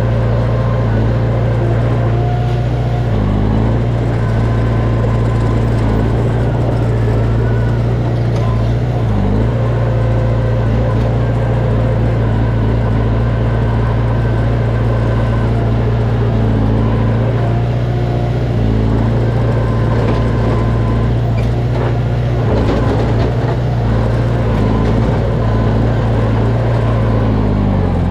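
Diesel engine of heavy earthmoving machinery running steadily at a constant speed, dipping briefly in pitch a few times.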